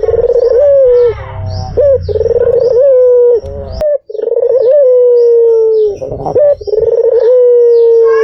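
White Barbary dove (puter putih) cooing repeatedly. The calls are long, loud coos that each open with a short upward flick, then hold and sink slightly, coming every second or two.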